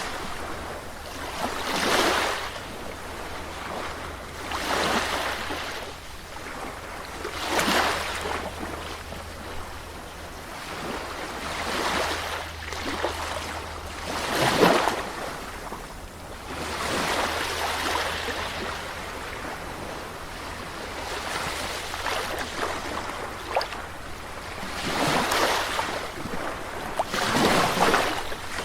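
Sea waves breaking and washing up on a shore, a surge of surf every two to three seconds, over a steady low rumble.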